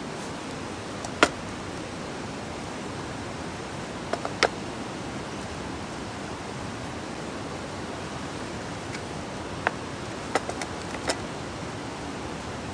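Wood campfire crackling: several sharp pops, a few of them in quick clusters, over a steady rushing hiss.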